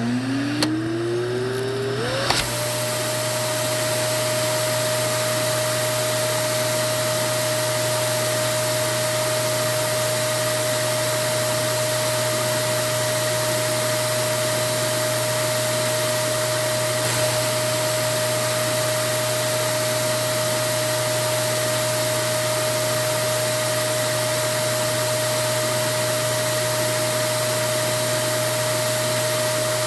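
Vacuum cleaner switched on: its motor whine rises in pitch over about two seconds, then it runs steadily with one level whine over a rush of air.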